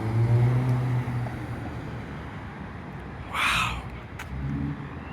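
A low, steady engine hum from a vehicle that fades after about a second and a half, leaving faint outdoor background noise. About three seconds in comes a breathy, whispered "wow".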